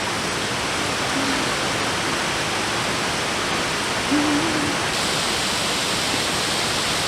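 Steady rushing of a mountain stream, with a brief low murmured voice about four seconds in.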